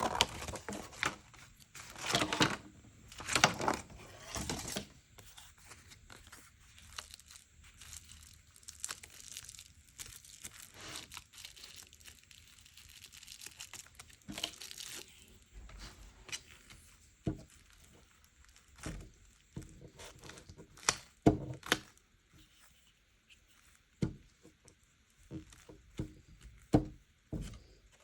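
Paper being handled for a junk journal: rustling, tearing and crinkling in several bursts over the first few seconds and again briefly about halfway, then a scattering of light taps and knocks.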